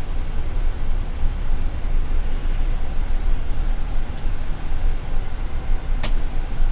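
Steady flight-deck noise of a Boeing 787 on final approach: a constant rush of airflow over a low rumble. One sharp click about six seconds in.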